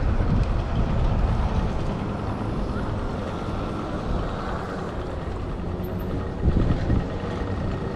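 Wind rumbling on the microphone of a moving e-bike, with city traffic noise underneath and a stronger gust about six and a half seconds in.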